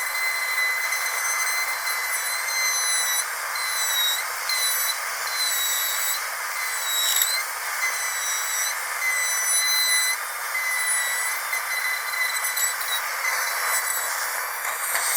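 Dentist's drill whining steadily at a high pitch over a hiss. The whine briefly dips in pitch several times.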